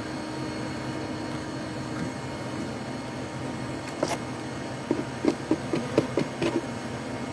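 Steady hum of a honeybee colony buzzing in an opened wall cavity. About four seconds in comes a quick run of short knocks, roughly eight of them over two and a half seconds.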